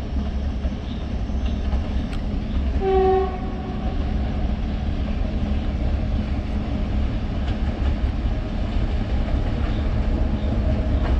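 Diesel locomotive hauling a passenger train, its engine a steady low rumble as it approaches, with one short horn blast about three seconds in.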